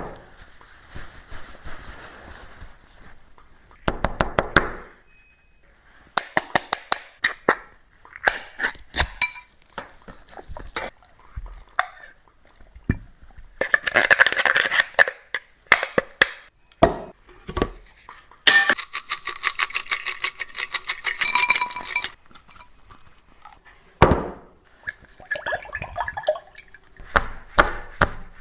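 Dog eating from a dish: crunching and chewing clicks mixed with clinks of the bowl and utensils, coming in irregular runs.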